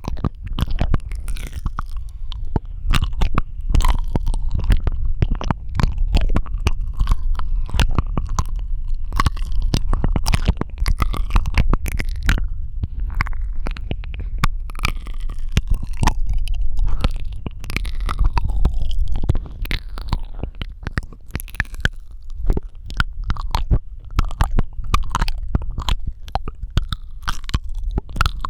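Close-miked ASMR mouth sounds: a fast, dense run of wet tongue clicks, lip smacks and squishy saliva sounds.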